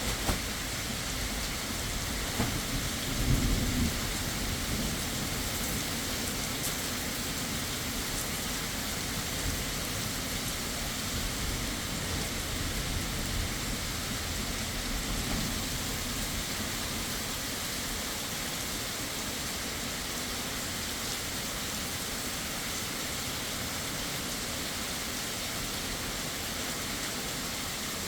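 Heavy rain falling steadily, with a low rumble of thunder about three seconds in and a fainter rumble about halfway through.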